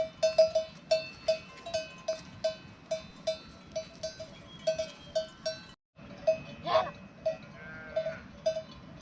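Bells on a grazing sheep and goat flock clanking irregularly, about two or three strikes a second. The sound breaks off briefly about six seconds in, and soon after an animal bleats.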